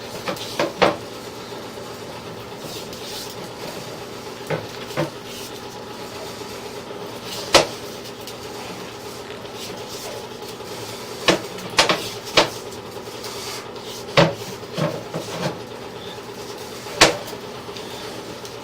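Sewer inspection camera's push cable being pulled back through the pipe, with irregular sharp clicks and clanks over a steady hum.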